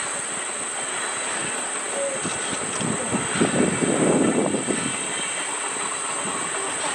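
Steam-hauled passenger train running along the line: the rumble and clatter of its coaches' wheels on the rails, swelling for a second or so just after the middle.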